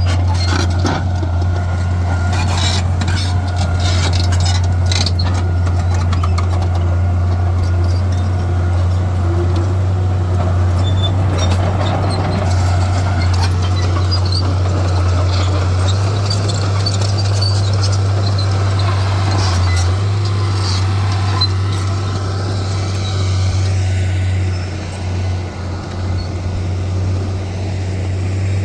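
Heavy diesel earthmoving machinery running steadily with a deep, low engine drone. Scattered knocks and clatter come in the first several seconds, and the level dips briefly near the end.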